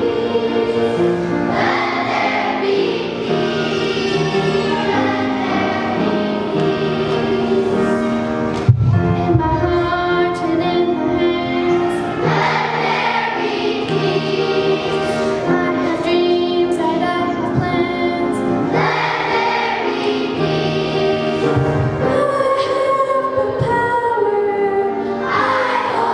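Elementary school children's choir singing, with sustained notes moving from phrase to phrase, and a brief knock about nine seconds in.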